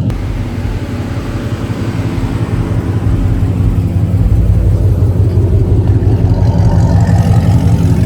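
Car engine idling loudly with a fast, even pulsing. It grows louder over the first few seconds, then holds steady.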